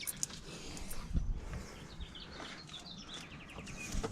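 Small birds chirping in a quick run of short notes, with a low thump about a second in.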